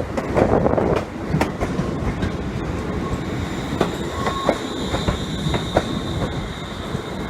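A train moving along the platform tracks: a steady rumble with wheels clicking over rail joints, and a thin high wheel squeal that sets in about three seconds in.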